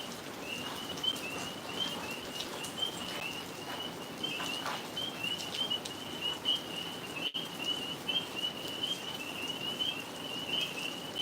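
Tree frogs chorusing: a steady run of short, high, repeated calls.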